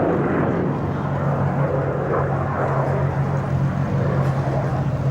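Cessna A-37B Dragonfly's twin turbojet engines heard in flight as a steady, unbroken jet drone with a low hum underneath.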